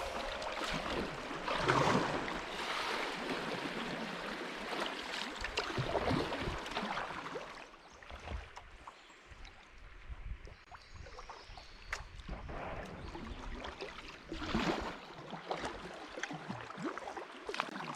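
Kayak moving down a flowing river: water rushing and splashing around the boat, with louder swishes now and then, quieter for a few seconds in the middle.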